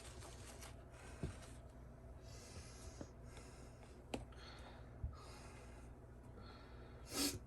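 Quiet handling of python eggs: a few light clicks and soft rustling, with a short breathy hiss near the end.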